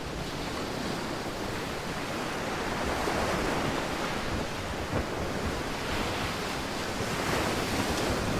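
Steady rushing noise of wind and water, with wind buffeting the microphone. It swells a little about three seconds in.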